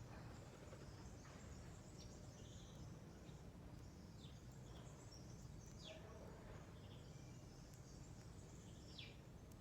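Faint, scattered bird chirps, a few of them quick downward-sliding notes, over a low steady background rumble.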